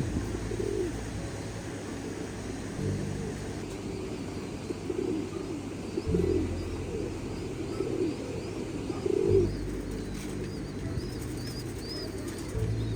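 Domestic pigeons cooing again and again, with thin high chirps joining in from about ten seconds in.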